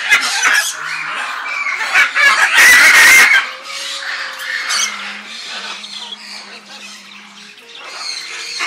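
Birds squawking and calling, with one loud, harsh squawk lasting under a second about two and a half seconds in.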